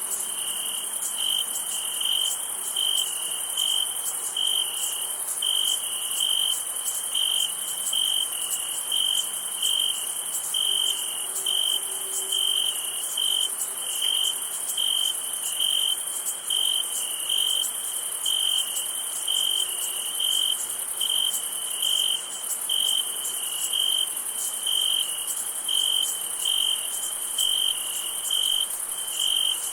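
Crickets chirping on a summer night: one cricket's clear chirp repeats evenly about twice a second over a steady, high-pitched chorus of many more insects.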